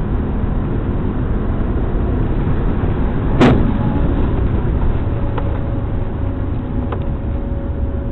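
Steady, loud road and engine rumble of a moving car heard through a dashcam, with one sharp bang about three and a half seconds in and two faint ticks later.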